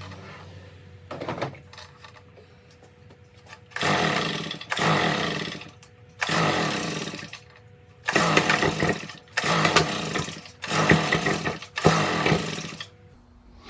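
Stihl BR340 leaf blower being pull-started over and over: about eight pulls of the recoil starter, each a short whirring crank that falls in pitch, and the engine never catches. It will not fire even with a new spark plug.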